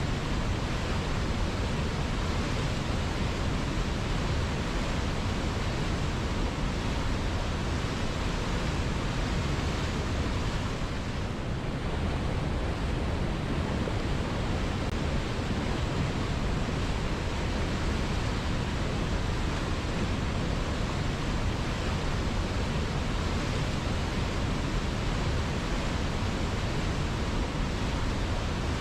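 River water flowing in a steady rushing noise, dipping slightly in level for a moment about eleven seconds in.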